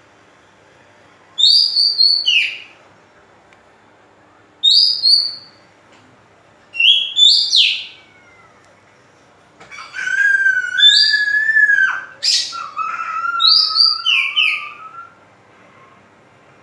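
Oriental magpie-robin singing: three short, loud phrases of sliding whistled notes a couple of seconds apart, then a longer run of varied whistles lasting about five seconds.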